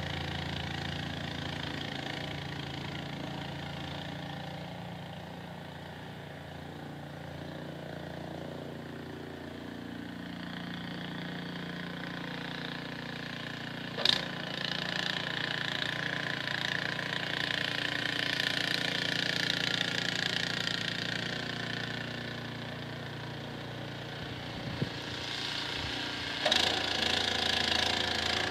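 Small engine running steadily, its sound swelling and fading a little, with a sharp click about halfway through and a knock near the end.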